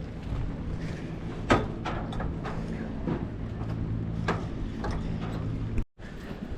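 A low engine hum runs steadily under a few sharp clicks and knocks, the loudest about a second and a half in, and drops out briefly near the end.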